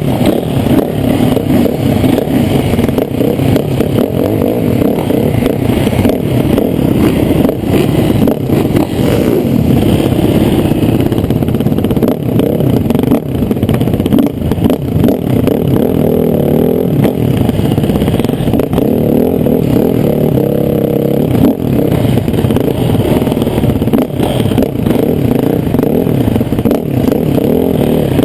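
Motocross bike engine revving up and down continuously as it is ridden round a dirt track, with rattling and scraping mixed in.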